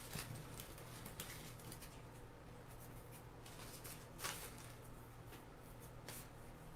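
Faint rustling and brushing of leaves and greenery being tucked into a wreath, a few short strokes with the clearest about four seconds in, over a steady low hum.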